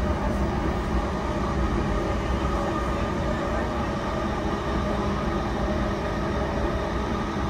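Interior running noise of a JR East E233-1000 series electric train: a steady rumble of wheels on rail and running gear, with a few faint steady hums, holding an even speed.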